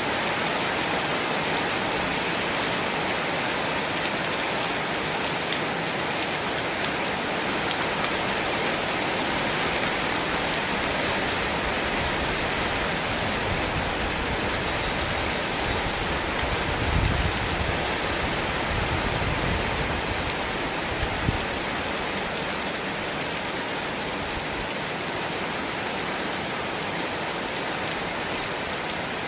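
Steady rain falling, an even hiss of many drops. A low rumble swells for a few seconds about two-thirds of the way in, with a single brief knock just after it.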